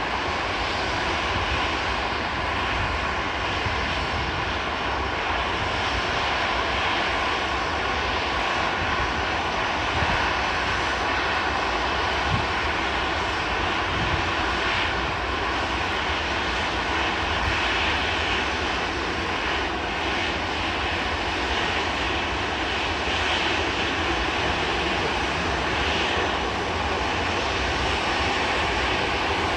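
Jet engines of an Airbus A320-214 running, a steady even noise with a faint steady whine that neither builds nor fades.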